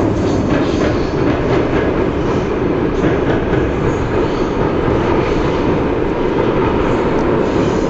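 Train coaches rolling across a steel girder bridge: a steady loud rumble with a light clatter of wheels.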